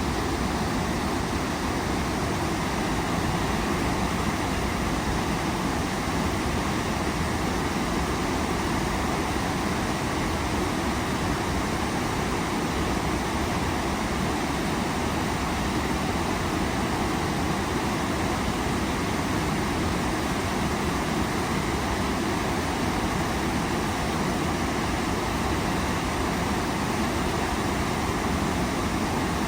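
Waterfall: water falling and rushing with a steady, unbroken noise that stays even in level throughout.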